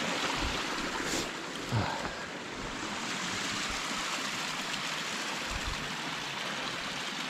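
Small rain-swollen forest creek running and splashing steadily over rocks in a continuous rushing wash.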